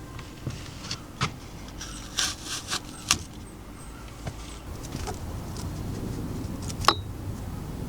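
Scattered sharp taps and clicks of small birds at a garden feeder, over a steady low rumble of city traffic that swells about five seconds in.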